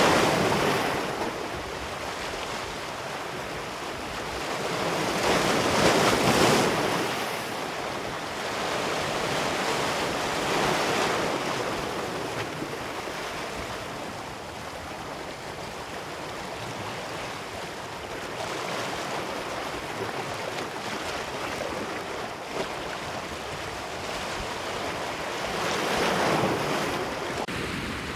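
Ocean surf breaking on a beach: a continuous wash of water noise that swells and ebbs as each wave breaks and runs up, loudest about six seconds in and swelling again near the end.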